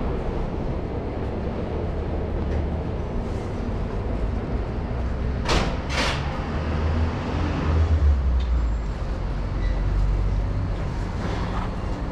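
Train at a station: a steady low rumble, with two short sharp air hisses about halfway through, half a second apart.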